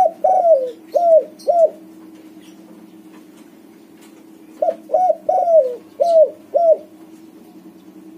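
White spotted dove (tekukur) cooing in two phrases of about five notes each, one at the start and another about halfway through, with a pause between. A faint steady low hum runs underneath.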